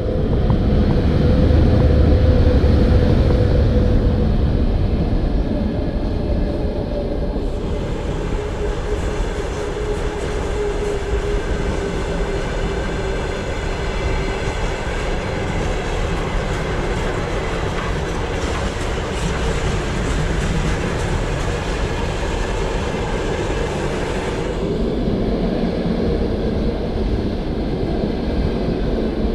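VL80 electric locomotive hauling a repair-and-recovery train, the train rolling by on the rails with a steady low rumble. A tone runs through it and slowly drops in pitch over the first half, and a high hiss joins from about eight seconds in until about twenty-five seconds. Loudest in the first few seconds.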